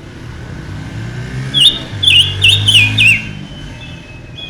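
A ngũ sắc songbird sings a quick phrase of about five sharp whistled notes, each dropping in pitch, over a low steady hum.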